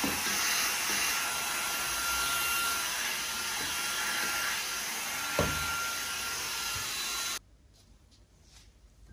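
Vacuum cleaner running steadily, with a knock about five seconds in, then switched off and cutting out suddenly near the end, leaving faint small rubs and clicks.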